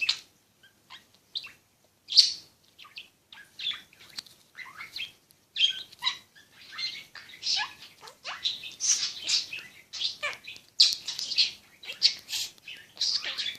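Pet parrot chattering in a rapid string of short, high chirps and squawks, sparse at first and coming thick and fast in the second half.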